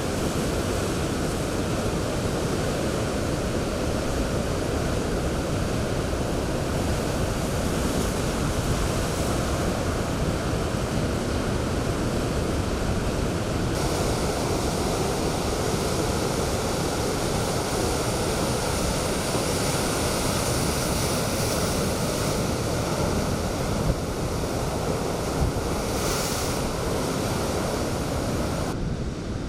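Typhoon storm-surge waves breaking, with strong wind blowing across the microphone: a steady, dense rush of surf and wind. Two brief knocks come near the end.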